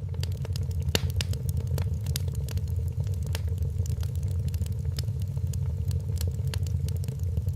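Wood fire in a fireplace crackling, with many sharp, irregular pops over a steady low rumble of the burning logs.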